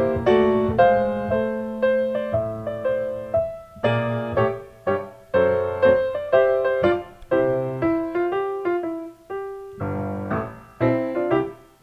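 Background piano music: a melody of struck notes, each ringing and fading, played at an easy pace.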